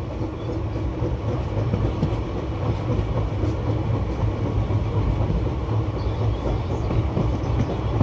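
Passenger train running steadily along the track, heard from aboard: a continuous low rumble of wheels on rail with a few faint clicks.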